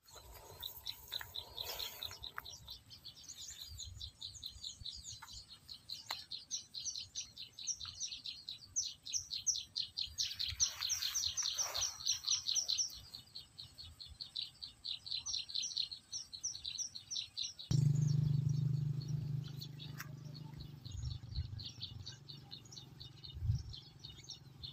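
Small birds chirping in fast, repeated runs of high notes. About two-thirds of the way in, a low steady hum starts suddenly and becomes the loudest sound, while the chirping carries on more faintly.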